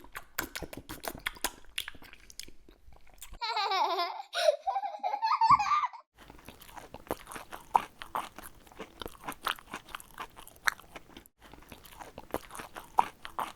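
Crunchy eating sound effects: many quick, irregular crisp bites and chewing crunches. A short, wavering squeaky voice-like sound about three and a half seconds in is the loudest part.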